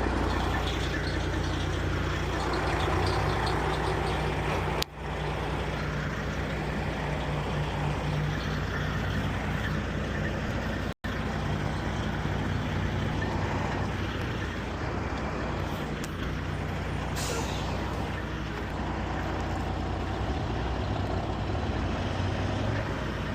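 Large truck's engine running steadily, with a short hiss of air about 17 seconds in.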